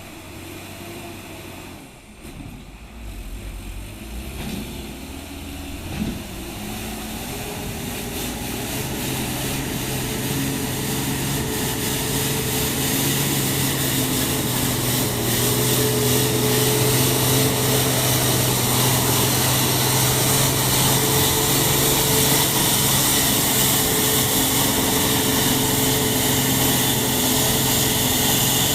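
Truck engine running under steady load, growing louder through the first half and then holding steady with an even hum.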